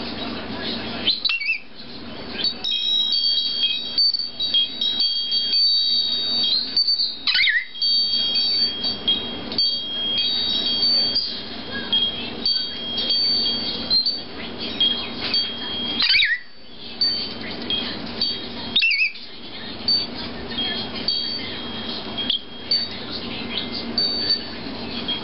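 Lilac-crowned amazon parrot giving four short sweeping calls, spaced several seconds apart, against steady high tones that stop and start over a constant background hum.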